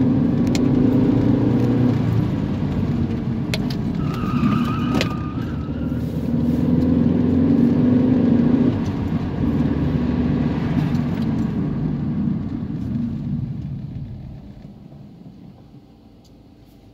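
Car engine heard from inside the cabin while driving, rising in pitch as it accelerates, dropping back about nine seconds in, then quietening over the last few seconds. A brief high squeak about four seconds in.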